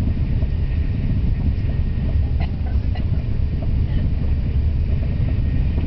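Thalys high-speed train running, a steady low rumble.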